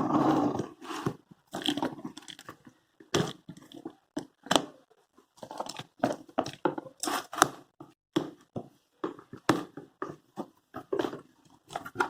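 Packaging of a ceiling fan box being opened and handled: irregular bursts of tearing, crunching and crumpling of cardboard and paper.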